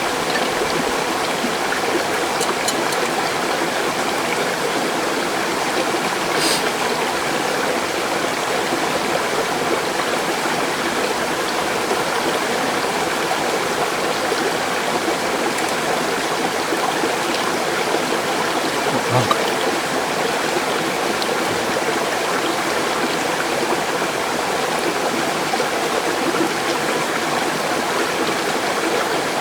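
A mountain stream rushing and splashing steadily. There are a few faint clicks over it, which are likely small sounds from the camp or the fire.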